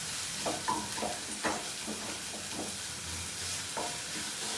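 Chopped onions and garlic sizzling in hot oil in a kadhai, with a spatula scraping and stirring them in short, irregular strokes. They are being sautéed until soft.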